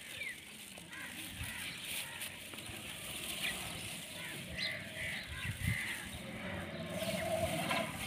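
Quiet outdoor background with a few faint, short bird chirps scattered through it and a faint steady hum that comes up in the second half.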